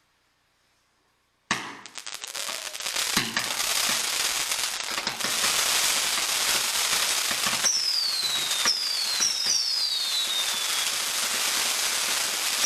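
Firework cakes firing in a display: after a second and a half of near silence a sudden bang opens a dense, continuous crackle that builds and then holds, and from about eight seconds in several whistles sound, each falling in pitch.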